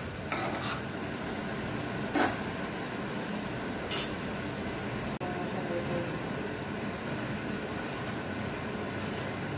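Spice paste and potatoes sizzling in oil in a kadai, fried until the oil has separated, with a metal spatula scraping the pan a few times in the first four seconds. About five seconds in the sizzle turns abruptly duller and steadier.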